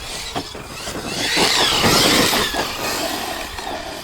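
Electric RC monster truck driven hard across rough ground: a high motor whine rising and falling in pitch over the noise of its tyres on dirt and grass, building to a peak about two seconds in and then fading.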